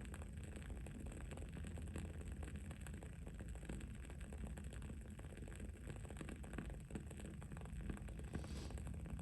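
Wood-wick candle crackling: a dense stream of small, quick crackles over a steady low background hum, with a brief hiss near the end.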